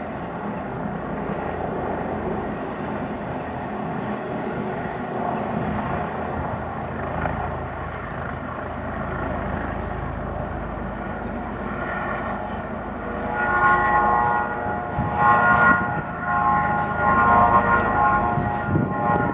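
Steady rumbling noise of a helicopter in flight. About two-thirds of the way in, a loud horn made of several steady tones sounds in repeated blasts, louder than the helicopter.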